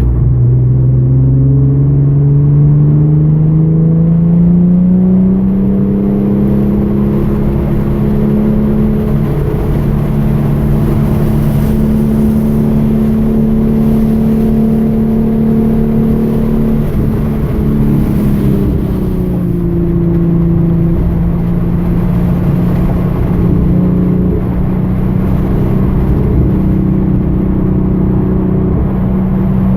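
2013 Hyundai Genesis Coupe's 3.8-litre V6 pulling hard on track: the engine note climbs steadily for several seconds, holds high, drops about halfway through as the driver lifts or shifts, then settles and pulls again.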